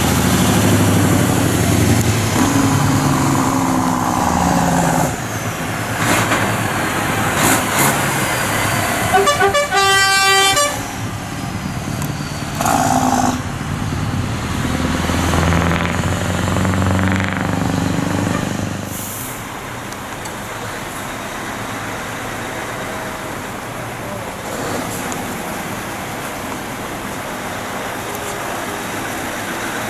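Lorry engines running as trucks pass, with a horn sounding for almost two seconds about nine seconds in and a shorter tone a few seconds later. The engine sound drops away after about nineteen seconds, leaving a quieter background.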